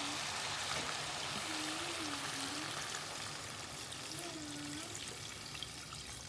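Water poured steadily into a pot of curried chicken back on the stove, a continuous rushing pour that slowly eases off.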